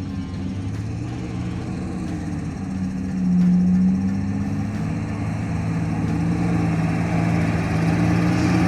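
Nissan Patrol's petrol straight-six engine running at low revs as the 4WD crawls along a dirt track, with a brief rise in revs about three seconds in.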